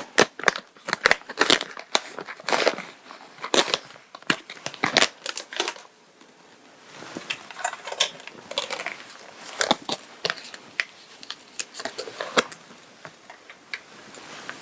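Close handling of fabric and small fittings: crinkly rustling with many sharp clicks and crackles, busy for the first half, then softer rustling with a few scattered clicks and one sharp click near the end.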